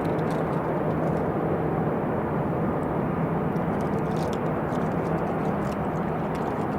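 Jet airliner engines running steadily, a rumble with a low steady hum that neither rises nor falls.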